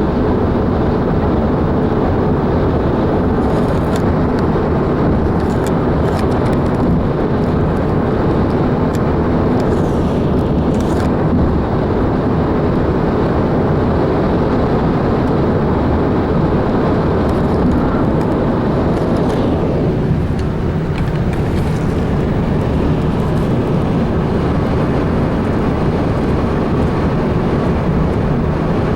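Steady road and engine noise of a vehicle travelling at freeway speed, a dense rumble and rush, with a brief dip in loudness about two-thirds of the way through.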